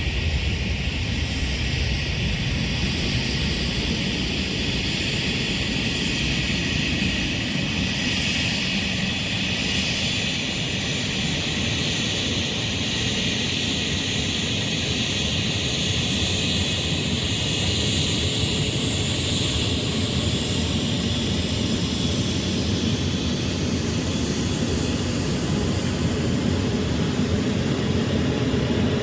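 An airliner's engines running as it moves near the airfield, a steady loud noise with a high whine that drifts slowly in pitch, growing a little louder near the end.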